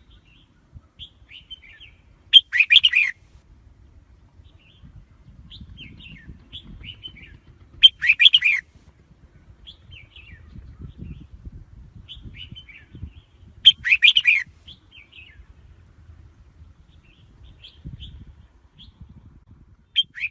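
Red-whiskered bulbul singing: a loud, bright song phrase about every five and a half seconds, with short softer chirps in between.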